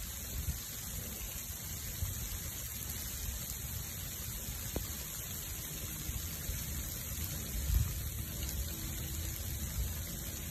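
Rain from an ice/rain storm falling around a burning wood bonfire: a steady, even hiss with an uneven low rumble underneath.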